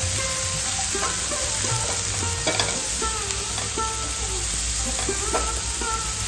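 Chickpeas and spices sizzling in oil in a stainless steel sauté pan while a wooden spatula stirs and scrapes them, with a sharper scrape about two and a half seconds in.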